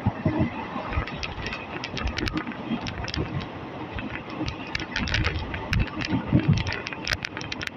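Passenger train running along the track: a steady low rumble with many irregular sharp clicks and rattles.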